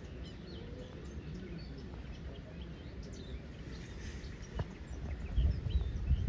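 Small birds chirping in the background, many short high chirps, over a low rumble. About four and a half seconds in there is a single click, and near the end the low rustling rumble grows louder.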